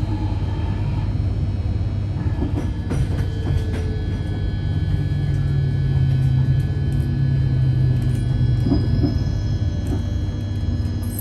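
London Underground Northern line train running, heard from inside the carriage: a steady low rumble, with a low hum that swells from about four and a half to eight and a half seconds in, and a few clicks.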